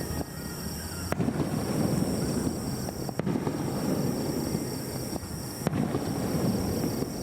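Aerial fireworks display: several sharp bangs of shells bursting, a second or two apart, over a continuous low rumble of further bursts and echoes.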